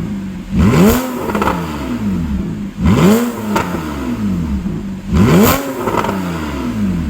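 Porsche 911 Targa (991) flat-six engine through a custom exhaust, blipped three times, each rev climbing quickly and falling back to idle, about two and a half seconds apart.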